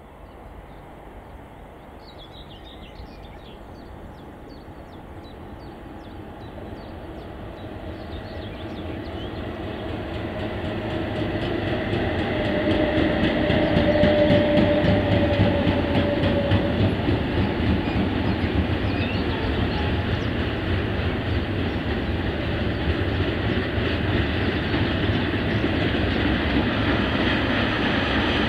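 Freight train approaching and passing close by, growing louder over the first dozen seconds and then a steady rumble of wagon wheels rolling on the rails as sliding-wall wagons and empty car-transport wagons go past.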